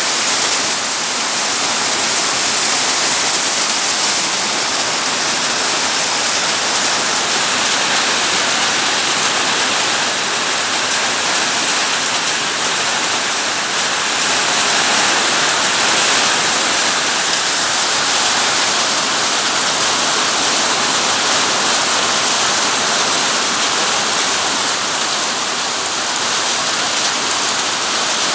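Heavy rain pouring steadily, a loud, even hiss with no letup.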